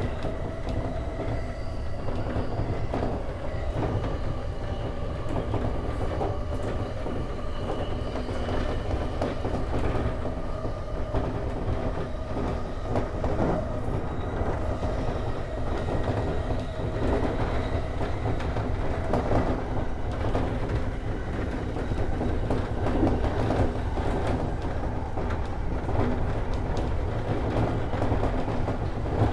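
JR E231 series electric commuter train running along the line, a steady rumble of wheels on rail with scattered clicks over rail joints, heard from inside the leading car.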